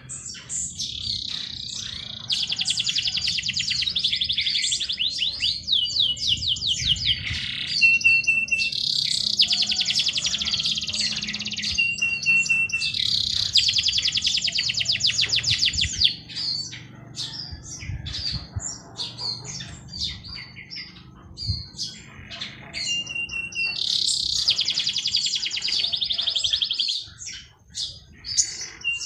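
Songbirds singing: long, rapid, high trilled phrases of about three seconds each, four of them, separated by pauses filled with short chirps and a brief steady piping note.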